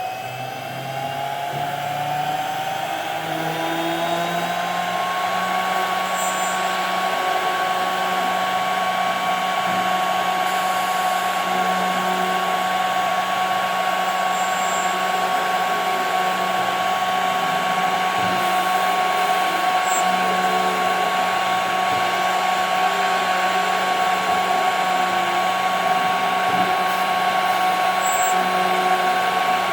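A CNC machine's spindle spinning up, its whine rising in pitch over the first five seconds or so, then running steadily at speed.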